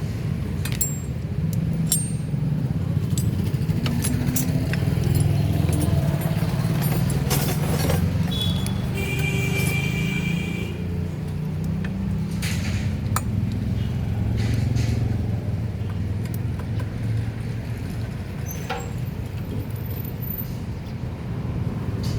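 A motor vehicle engine rumbling steadily, with scattered metallic clicks and clinks from tools at work on the engine, and a brief high tone about nine seconds in.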